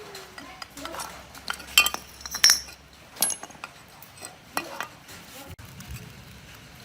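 Small metal parts and tools clinking and tapping against each other: a run of separate sharp clinks, a few of them ringing briefly.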